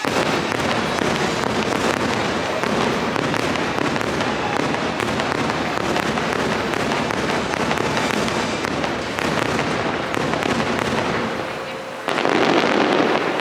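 Fireworks crackling and bursting in dense quick succession, mixed with crowd voices; the sound starts abruptly and grows louder for a final stretch near the end.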